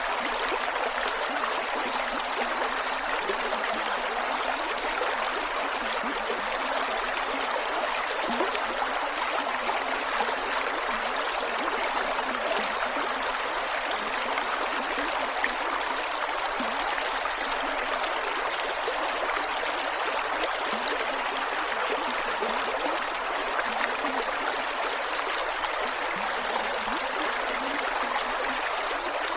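Creek water flowing over rocks: a steady rush with small gurgles and trickles.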